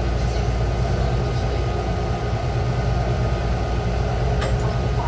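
Taichung MRT Green Line metro train running, a steady low rumble with a faint steady electric hum.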